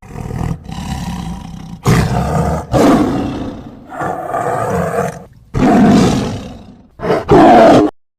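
Big cat roaring: a series of loud roars and growls with short gaps between them, cutting off suddenly near the end.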